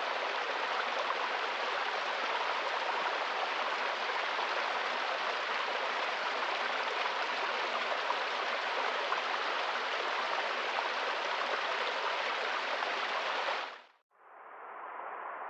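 Running water, like a stream, with a steady even rush. About fourteen seconds in it fades out and a quieter, duller hiss takes over.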